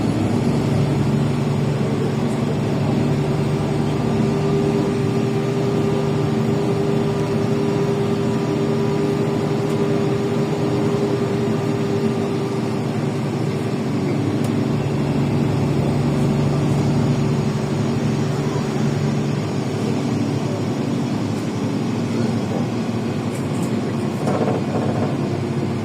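LiAZ 5292.65 city bus with its Yuchai engine running under way, heard from inside the passenger cabin: a steady engine drone over road noise, the engine note shifting slightly a couple of times.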